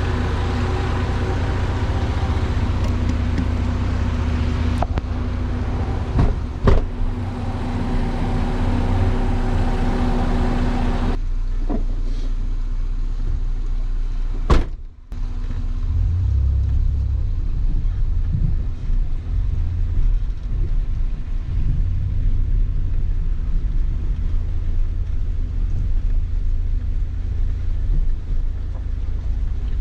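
Vehicle engine running steadily with a low rumble, with two sharp knocks, one about six seconds in and one about fifteen seconds in. After the second knock the sound turns duller, a low rumble with less treble.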